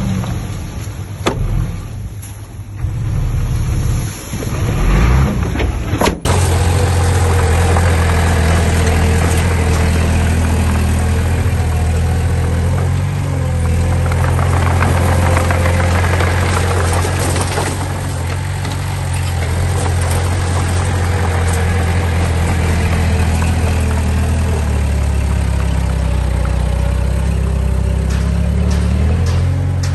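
Diesel engine of an earthmoving machine running, with an uneven stretch at first. About six seconds in the sound changes abruptly to a loud, steady, low engine note that holds on.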